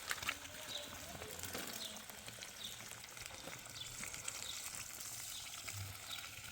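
Steady rain pattering, an even hiss full of fine drip clicks. A short high chirp repeats about once a second throughout.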